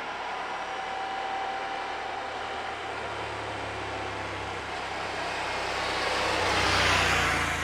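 KTM Norden 901's parallel-twin engine running under way with wind noise, which swells to its loudest about seven seconds in and then eases. A thin steady whistle from somewhere on the bike sits over it, which the rider can't trace.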